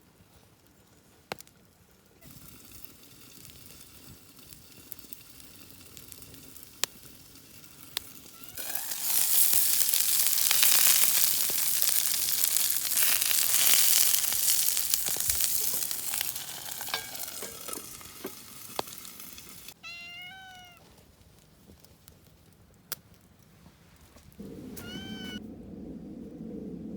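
Food sizzling as it fries on a hot pan over a campfire grill. The sizzle swells loud about a third of the way in and then slowly dies down, with sharp pops along the way.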